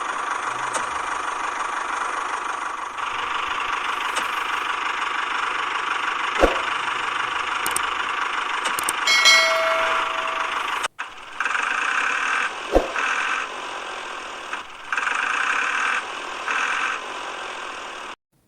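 Mini tractor motor running steadily. About eleven seconds in it cuts out, then runs in short on-and-off stretches. A couple of sharp clicks and a brief pitched tone are heard along the way.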